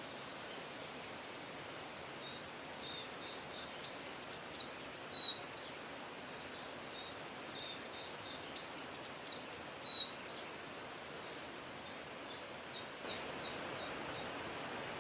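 A small songbird calling in quick, high, short chirps and brief trills, loudest about five and ten seconds in, over a steady background hiss.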